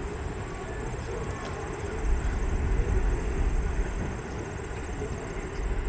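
Steady roar of Niagara Falls, a dense rushing noise with a deep rumble underneath that swells louder about two seconds in.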